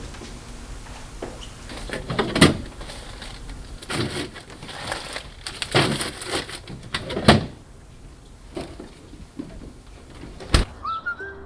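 A series of irregular knocks and thuds, about five, with rustling and scraping handling noise between them.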